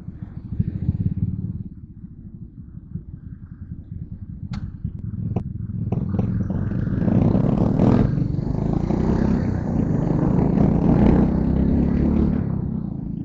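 Yamaha Crypton R's single-cylinder four-stroke engine running under way, easing off for a few seconds with two sharp clicks, then picking up again with rising wind and road noise from about six seconds in.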